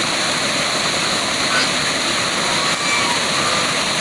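Waterfall, a steady rush of falling water, with a few faint short high notes over it.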